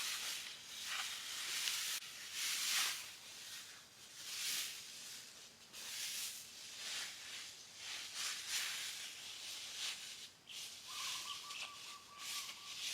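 Jungle ambience: uneven hissing rushes of noise coming every second or so, with a thin steady high note joining about eleven seconds in.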